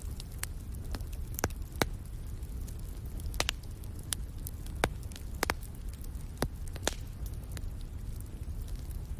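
Wood fire crackling: irregular sharp pops and snaps, several in quick pairs, over a steady low rumble of the flames.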